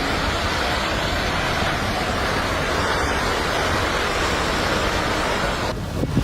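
Steady roar of a landslide, sounding like a rushing river, that cuts off suddenly near the end.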